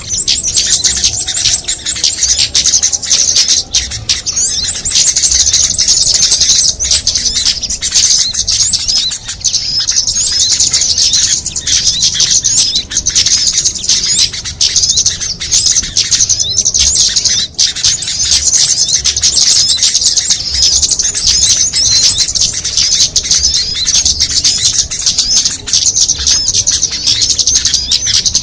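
Dense, continuous chorus of many small songbirds' high, rapid chirps and trills layered over one another without a break: a mixed bird-lure recording made to draw in small birds.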